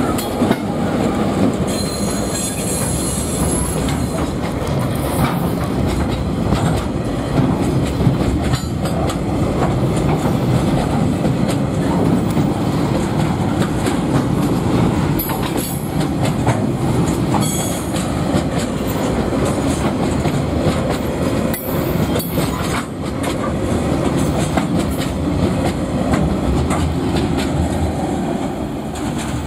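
A train passing close by: a steady rumble of wheels on rails with repeated clicks over the rail joints, and a high-pitched wheel squeal about two to three seconds in. It eases off slightly at the very end.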